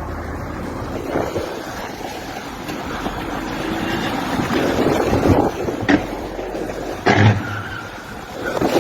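Steady rushing wind noise, with a few sharp knocks near the end.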